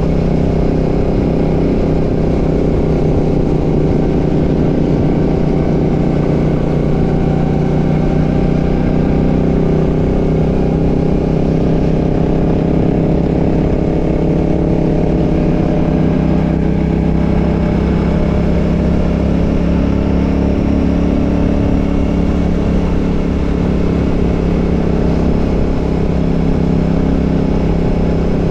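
Royal Enfield Classic 650's 648 cc parallel-twin engine running steadily with the bike under way, its note rising and falling gently with the throttle.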